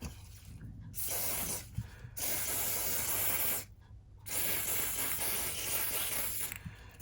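Spray hissing in three long bursts of one to two seconds each, with short pauses between.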